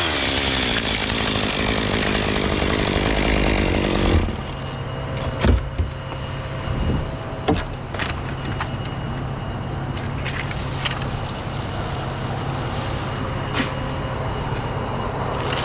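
Chainsaw cutting through Canary Island date palm fronds for about four seconds, stopping abruptly. A steady low hum remains afterwards, with a few sharp knocks.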